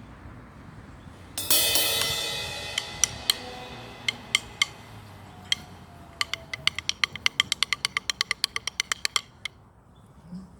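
Drum kit cymbal struck once and ringing as it fades over a couple of seconds, then a few single stick taps, then a quick even run of taps, about eight a second, for some three seconds before it stops.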